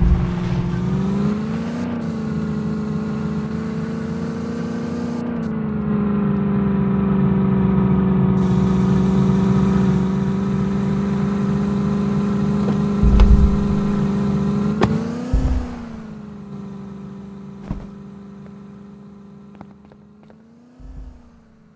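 Mini tractor's motor running at a steady pitch, rising briefly a few times as it speeds up, with a few low thumps. It fades away over the last several seconds.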